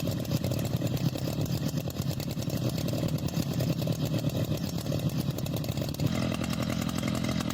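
Chainsaw engine running steadily and at speed, its note shifting slightly about six seconds in.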